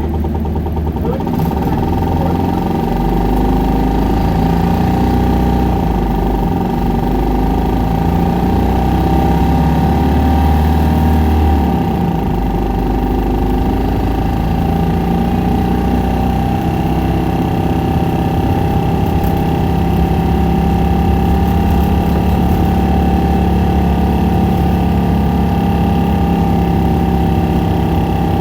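Isuzu Erga city bus's 4HK1 four-cylinder turbo diesel running hard at high revs under way, a steady deep drone with a whine above it. The low engine note changes about twelve seconds in, then carries on steadily.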